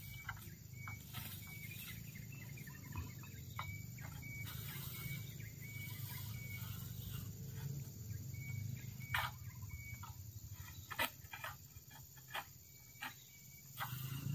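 Faint outdoor ambience with short, high chirps from a bird, repeated every second or so, a low steady hum underneath, and a few sharp clicks from about the middle to near the end.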